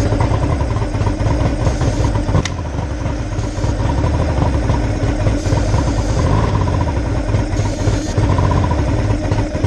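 Johnson J150 V6 two-stroke outboard engine running steadily at a fast idle.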